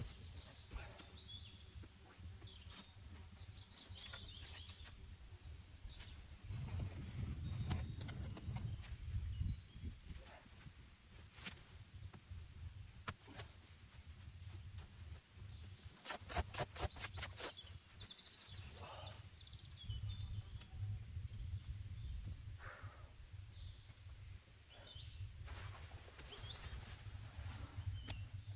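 Outdoor ambience: short high bird chirps over a low, uneven rumble, with scattered clicks and a quick run of about ten clicks about halfway through.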